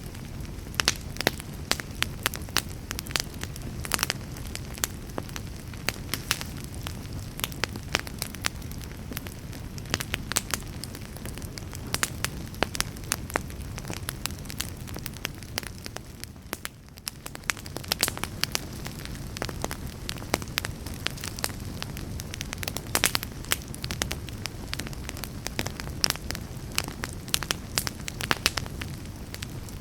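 Wood fire burning in a fireplace: a steady low rush from the flames under frequent, irregular sharp crackles and pops from the burning logs. The background rush briefly drops away about seventeen seconds in.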